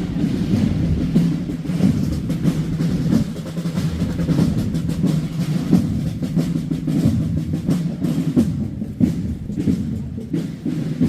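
Drums playing a continuous roll.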